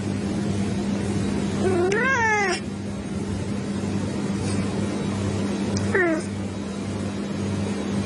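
A cat meowing twice: a rising-then-falling meow about two seconds in and a shorter falling meow about six seconds in, over a steady low hum.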